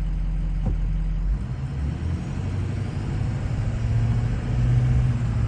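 Car engine and road noise heard from inside the moving car's cabin: a steady low hum that shifts in pitch about a second and a half in and grows a little louder near the end.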